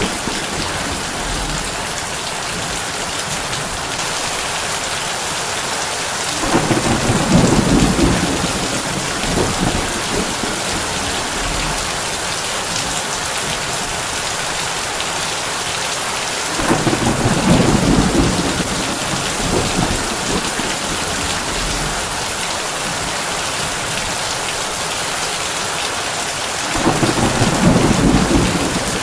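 Heavy rain drumming steadily on a tin roof, with thunder rumbling low three times, about ten seconds apart, each rumble lasting two to three seconds.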